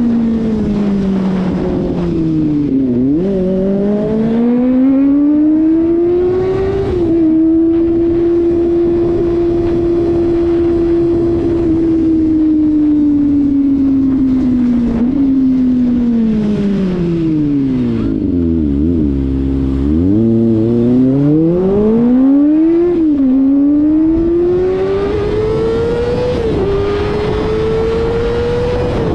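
Kawasaki ZX-25RR's 249 cc inline-four engine under way: its note holds steady, then falls away through several downshifts to low revs about two-thirds of the way in, and climbs again through the gears, with sudden drops at the upshifts near the end. A steady rush of wind runs under the engine.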